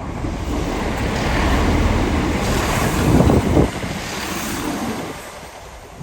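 Passenger train passing close by, a rising and falling rush of noise loudest about three and a half seconds in, with wind buffeting the microphone.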